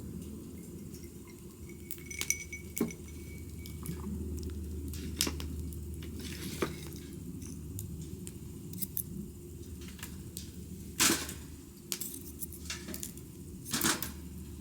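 Scattered clinks and knocks of small hard objects, one of them ringing on for a couple of seconds, with two louder knocks near the end, over a low steady rumble.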